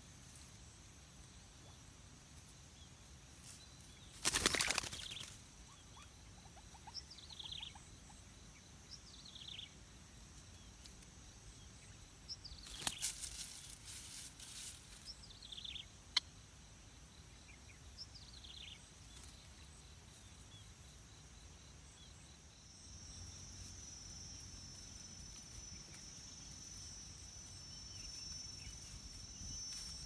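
Two loud bursts of rustling as a white-breasted waterhen works leaves into its flooded nest. Between them come several short bird chirps that slide downward in pitch. About three-quarters of the way through, a steady high-pitched insect drone sets in.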